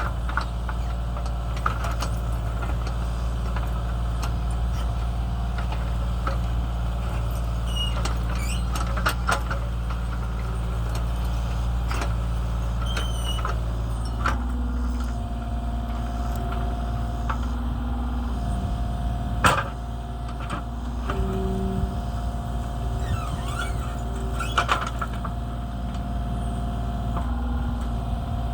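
Kubota KX033 mini excavator's diesel engine running steadily while the machine works, with scattered clanks and one loud knock about two-thirds through. From about halfway, a whine from the hydraulics steps up and down in pitch as the controls are worked.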